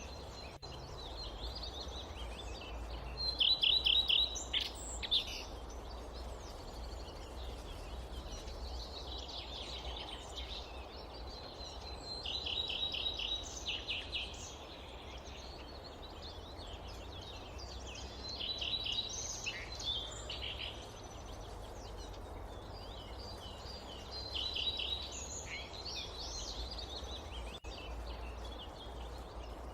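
Forest birds calling: one bird gives a short run of rapid high chirps every five or six seconds, with other scattered chirps in between. Beneath them runs a steady low rumble of wind.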